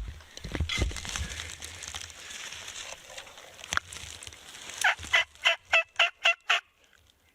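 A turkey series of about seven short call notes at about four a second, starting near the end, after a few seconds of rustling.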